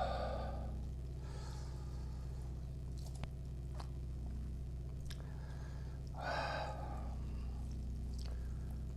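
A person eating quietly: two short breathy sounds, one at the start and one about six seconds in, and a few faint mouth or utensil clicks, over a steady low hum.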